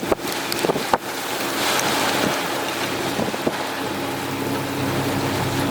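Wind buffeting the microphone by the water, with a steady low hum underneath.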